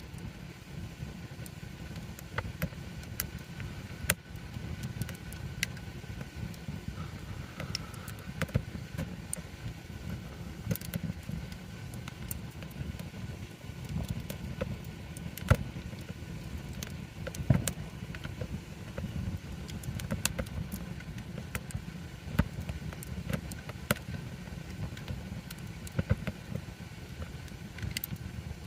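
Wood campfire burning: a steady low rumble of flame with irregular sharp pops and crackles from the burning wood, a few of them louder.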